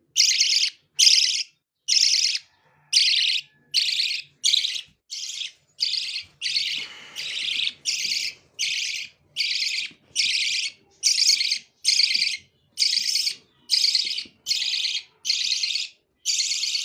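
Baby birds giving high, raspy chirping calls in a steady rhythm, one burst a little more often than once a second, each about half a second long.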